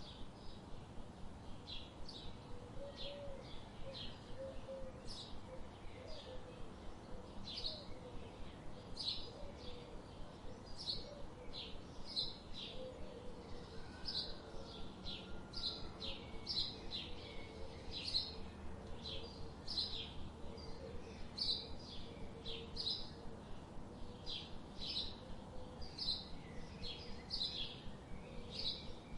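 Birds chirping: short, high chirps repeated about one or two a second without a break, over a faint steady background hiss.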